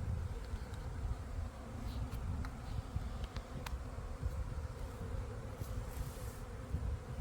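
A honeybee swarm in flight, a steady hum of thousands of bees still airborne and not yet settled into a cluster. A strong low rumble of wind on the microphone runs underneath.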